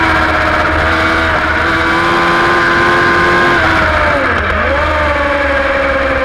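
Superbike engine running at high revs under load. About four seconds in the pitch drops sharply, then climbs straight back up and holds steady.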